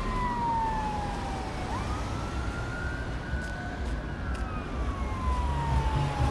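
Emergency vehicle siren in a slow wail: the pitch falls gradually for a couple of seconds, sweeps quickly back up, holds, then falls again, over the low rumble of road traffic.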